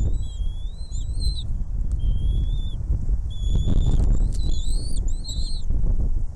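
Small birds giving a series of thin, high whistled calls, each under a second, some rising and falling in pitch, over a loud low rumble.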